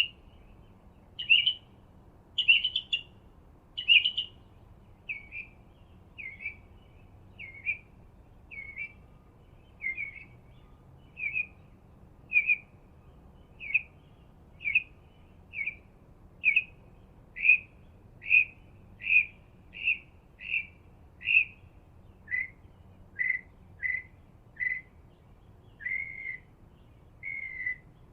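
A bird calling a short chirping note over and over, about once a second; the first few notes are louder and fuller, and the last several sit a little lower in pitch.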